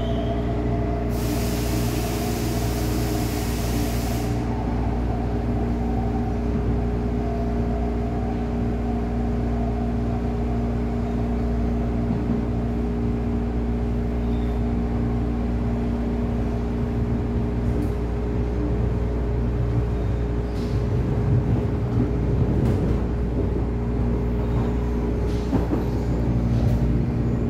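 MTR East Rail Line refurbished electric train heard on board: a steady hum of its electrical equipment over a low running rumble. About a second in, a hiss of air lasts some three seconds. More rattles and clunks come in over the last several seconds.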